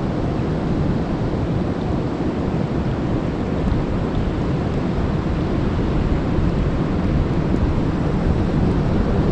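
A waterfall's steady, low rush of falling water.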